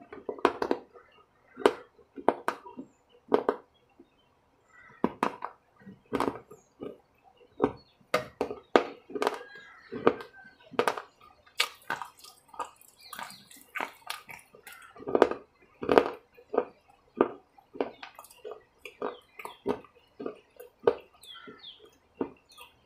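Close-up wet chewing with lip smacking: an irregular string of short, squishy smacks and clicks as food is eaten open-mouthed.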